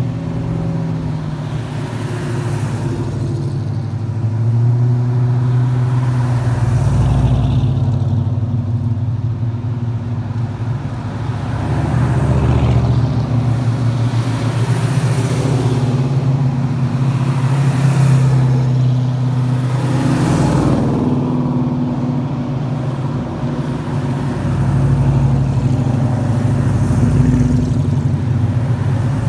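Ford hardtop cars' engines running in a low, continuous drone, with several cars driving past one after another.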